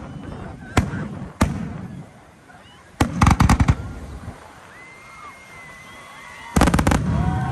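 Fireworks going off: two single bangs, then a rapid crackling volley about three seconds in and another near the end.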